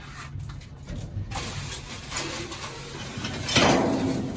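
Items being handled and shifted among trash in a dumpster, with a loud rustling scrape about three and a half seconds in, over a steady low hum.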